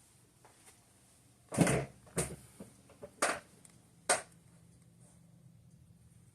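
The Modern Fan Company Cirrus ceiling fan's K55-type motor runs on low speed with a faint, steady hum. Over it come four short knocks or bumps about a second apart, the first the loudest.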